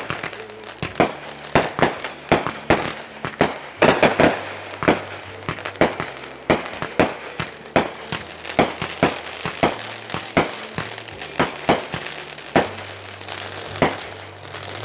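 Fireworks exploding in a rapid, irregular volley of sharp bangs, several a second, some with crackle.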